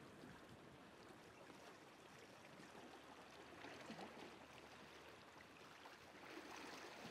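Near silence: a faint, steady wash of sea water, growing slightly louder near the end.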